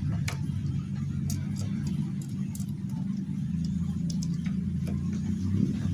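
Small motorcycle engine running steadily at idle, with scattered light clicks and ticks over it.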